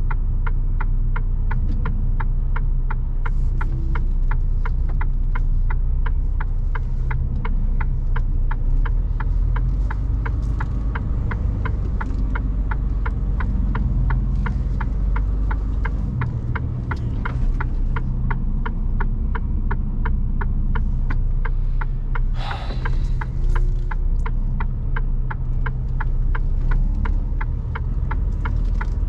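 Mercedes Actros truck's diesel engine running steadily, heard from inside the cab, with an even ticking of about three clicks a second throughout, typical of the turn-signal indicator. A short hiss breaks in about three-quarters of the way through.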